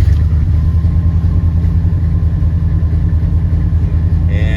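A 1976 Ford F-150's 460 cubic-inch V8 firing on a cold start with the choke set, then running at a steady idle.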